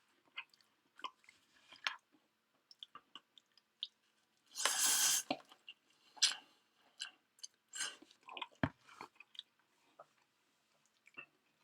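A person chewing food close to the microphone: scattered short wet clicks and crunches. About four and a half seconds in comes a louder noisy burst lasting under a second.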